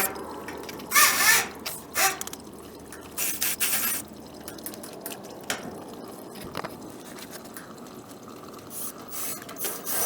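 Water splashing and dripping around a leaking gas water heater, with short scrapes and knocks from hand tools at work about one, two and three to four seconds in.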